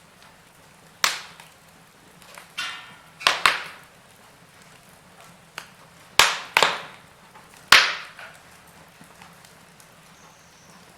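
Wood fire in a fireplace crackling, with a series of sharp pops and cracks from the burning logs, the loudest about three-quarters of the way through, over a faint steady hiss.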